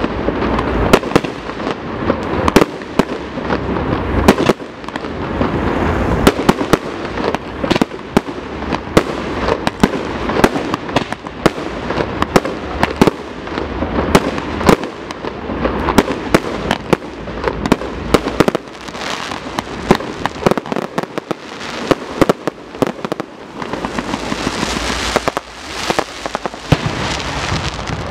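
Fireworks display: many sharp bangs from bursting shells in rapid, overlapping succession, with crackling between them.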